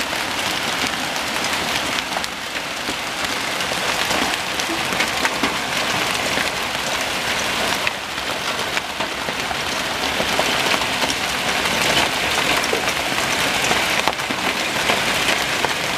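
Heavy rain mixed with hail pounding down on the house and surroundings: a dense, steady hiss peppered with many small sharp ticks of hailstones striking.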